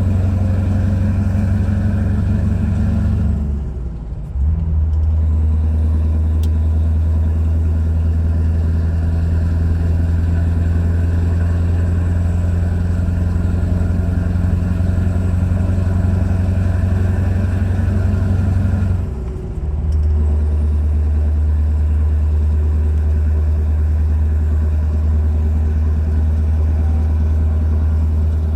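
Scania R500's V8 diesel engine running steadily under way. Twice, about four seconds in and again near twenty seconds, the sound briefly drops away and comes back at a lower pitch, as at an upshift.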